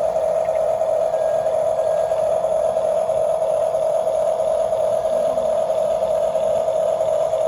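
Steady whine of a remote-control toy construction vehicle's small electric motor and gearbox, holding one pitch without change.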